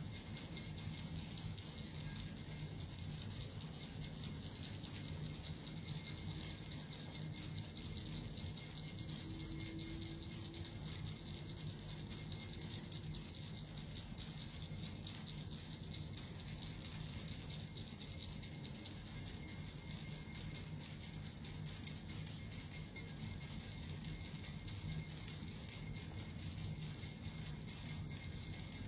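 Cluster of small suzu bells shaken continuously in a fast, even jingle, with a steady high ringing that does not let up.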